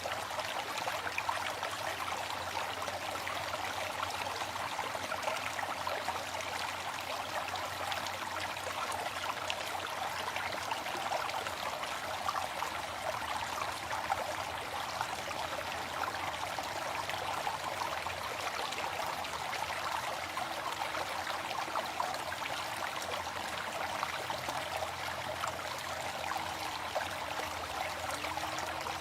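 Steady rush of falling water with a fine splashing texture, a waterfall running without break.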